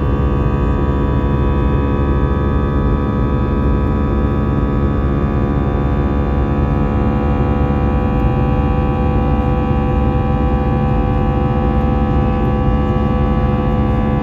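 Steady drone of an airliner's jet engines heard inside the passenger cabin in flight: a low rumble with many steady whining tones laid over it.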